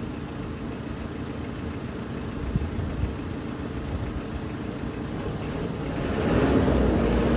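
2007 Mitsubishi Fuso dump truck's diesel engine running steadily, with two light knocks near the middle; about six seconds in it grows louder and busier.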